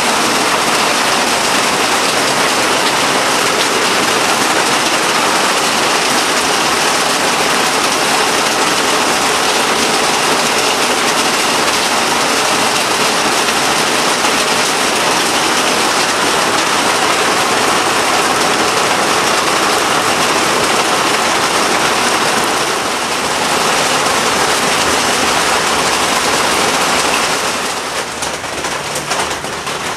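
Heavy rain pouring steadily onto standing floodwater and the ground, a dense hiss of falling water. Its level drops somewhat near the end.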